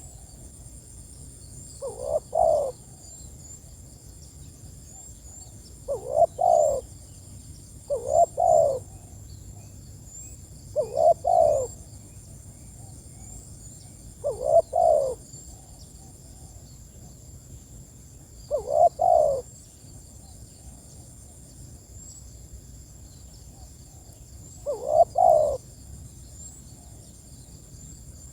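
Spotted dove (tekukur) cooing its call: short phrases of two or three low coos, eight of them a few seconds apart. Faint, quick, high chirps of a small bird repeat behind it.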